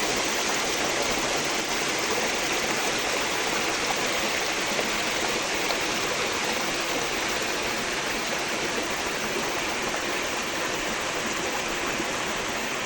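Forest stream flowing: a steady rush of water.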